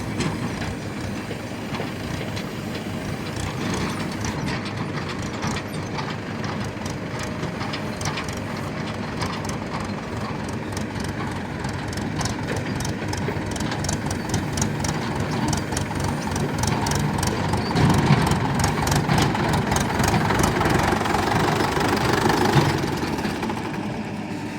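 Heavy diesel machinery running steadily, with a rapid mechanical clatter through the middle. The engine grows louder for a few seconds after the middle, as if working under load.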